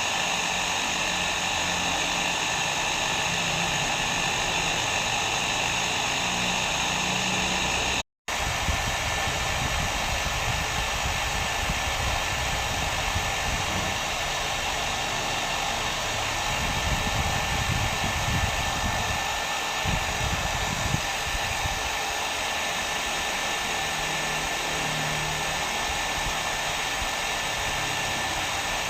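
Hair dryer running continuously: a steady blowing hum with a faint whine on top. It cuts out for a split second about eight seconds in, then carries on with a little more low rumble.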